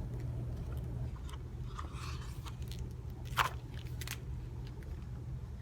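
Paper pages of a picture book being handled and turned: soft rustling with two sharp crinkles about three and a half and four seconds in, over a steady low hum.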